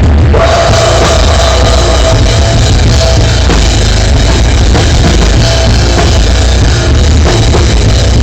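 Loud rock music with drums and guitar, heavily distorted and compressed.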